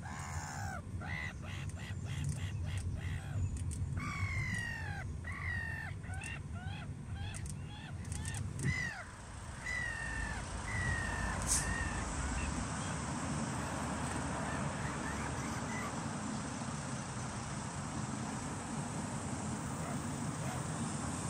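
A bird giving a quick run of harsh, downward-sliding caw-like calls for the first ten seconds or so, over the low rumble of a car. After that there is an even, steady hiss.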